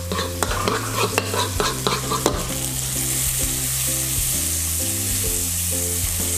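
A metal spoon clinks and scrapes against a ceramic bowl while stirring a sauce mixture for about two seconds. Then a steady frying sizzle takes over: onion sautéing in margarine in a wok.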